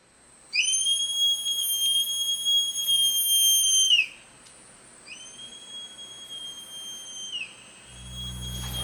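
Female sloth calling to attract a mate: three long, high, steady whistles, each sliding up at the start and dropping off at the end, the first lasting about three and a half seconds.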